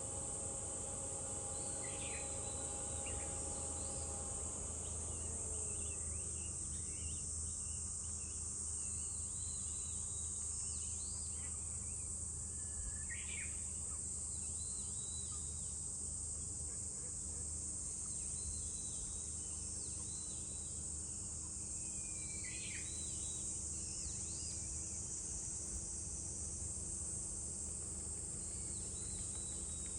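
Summer cicadas droning steadily at a high pitch, with scattered short bird chirps. A faint low hum slides down in pitch about five seconds in.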